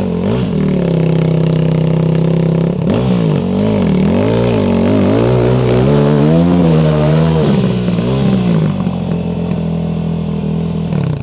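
Enduro dirt bike engine revved up and down over and over, the revs rising and falling every second or so. The engine is overheating and boiling its coolant while being worked hard on a hill climb.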